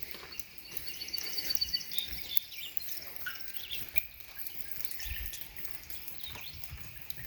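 Rainwater dripping into a rain barrel in scattered ticks, with a small bird giving a quick run of high chirping notes about half a second to two seconds in.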